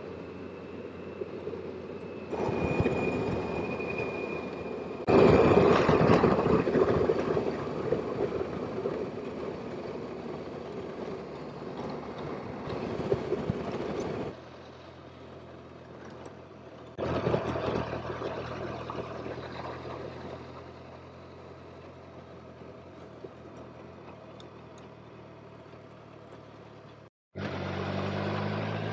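Motorcycle riding noise, engine and wind, in several short clips joined by abrupt cuts that make the level jump up and down; a low steady engine hum comes in near the end.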